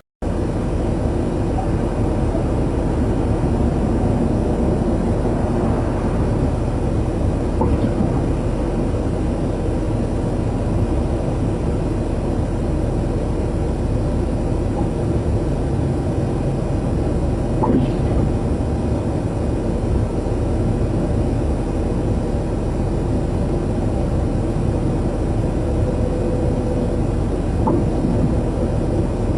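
Steady road noise of a vehicle driving, a constant low drone of engine and tyres, with a few faint clicks about ten seconds apart.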